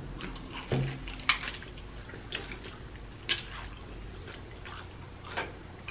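Close-miked wet chewing and lip smacking of fried chicken drumsticks: a handful of short, sharp smacks spaced about a second apart over a low, steady background.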